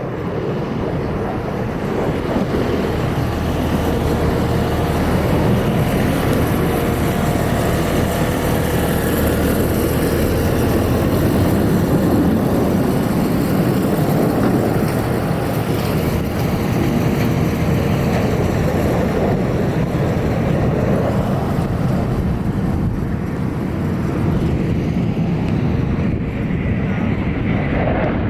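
Loud jet noise from an F-22 Raptor's twin Pratt & Whitney F119 turbofans as it flies its display, a steady roar that swells over the first dozen seconds and eases slightly toward the end.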